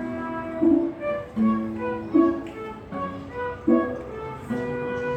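Orchestra of Russian folk instruments playing an ensemble piece, with sustained held notes over sharp accented chords that come about every three-quarters of a second.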